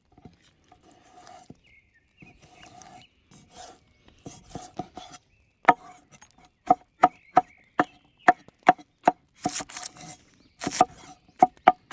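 A large cleaver chopping lamb meat and tail fat: soft cutting and scraping for the first few seconds, then sharp, regular chops at about two to three a second, each with a short ring.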